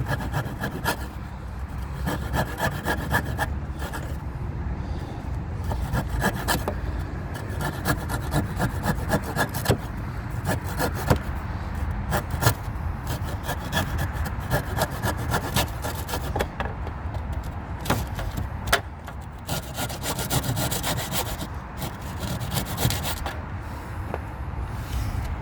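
A hand tool cutting and shaping a timber gate piece in quick repeated strokes, the wood rasping under the blade, over a steady low rumble.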